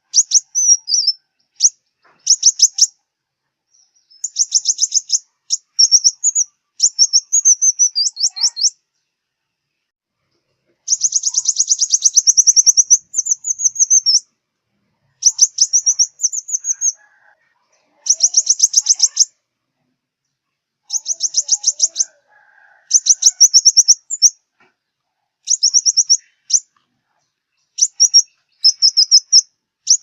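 Sunbird song: short bursts of rapid, very high-pitched trilling chirps, each lasting up to about a second and a half, repeated over and over with brief pauses between them.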